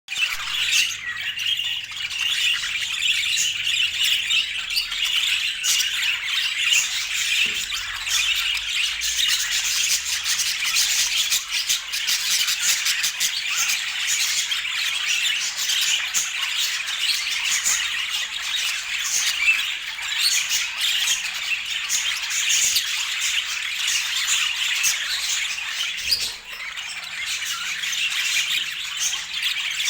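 Budgerigar chatter: a continuous, busy stream of short calls.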